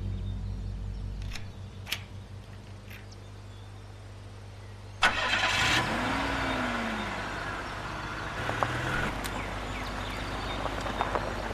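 Car engine cranked and started about five seconds in, with a sudden loud catch. The pitch rises and falls as it is revved, then it settles into steady running.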